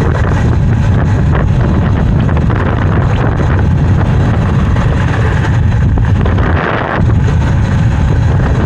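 Loud, steady wind noise buffeting the microphone while riding an electric dirt bike at speed.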